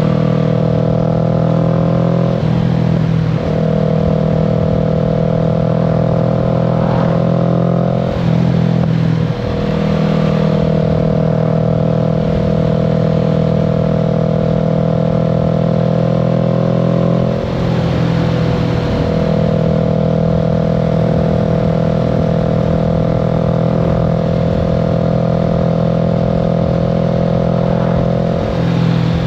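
Kawasaki Z650's parallel-twin engine pulling steadily while riding, heard from the rider's seat. The engine note breaks briefly and settles again about four times.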